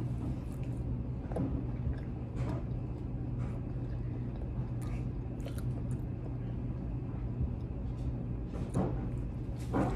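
A boy chewing a bite of breaded spicy nugget with his mouth closed: soft, irregular mouth and chewing sounds, with a couple of louder ones near the end, over a steady low hum.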